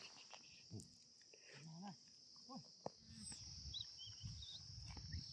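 Faint, steady high-pitched drone of insects, with a few short pitched animal calls in the first half and quick high bird chirps a little past the middle.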